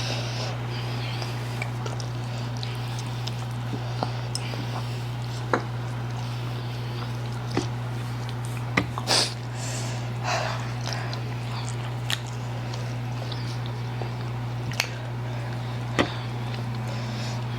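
Close-miked eating sounds of people eating spicy instant noodles: scattered sharp wet smacks and clicks, with a couple of short slurping bursts about halfway through, over a steady low hum.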